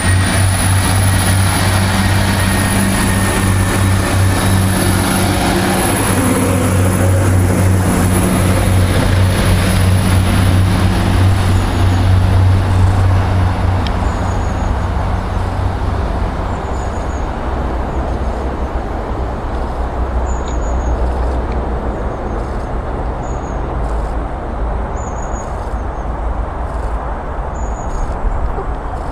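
Class 175 diesel multiple unit's engines running as the train pulls away and draws off, a steady low drone with a high whine that rises at the start. The drone weakens about halfway through.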